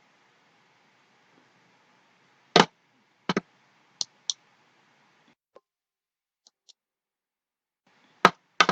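Computer mouse clicks, short and sharp, coming irregularly: a few spaced clicks, some faint ones in the middle, and two louder ones near the end.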